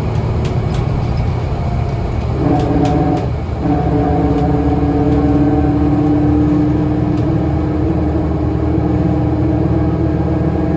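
Scania L94UA bus running with a steady low engine rumble. About two seconds in, a steady drivetrain whine comes in, breaks off briefly, then returns and holds as the bus drives on.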